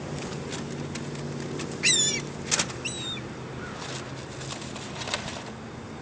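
Seagulls calling: one strong, wavering call about two seconds in and a shorter one a second later, with a sharp click between them, over a steady low hum.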